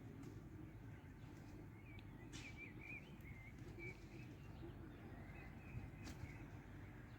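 Faint bird chirps, with a short run of twittering notes about two seconds in, over low steady outdoor background noise.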